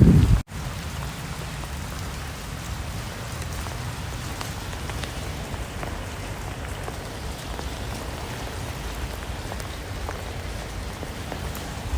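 Steady rain falling, with scattered separate drops ticking through an even hiss. The sound cuts out for an instant about half a second in, then carries on evenly.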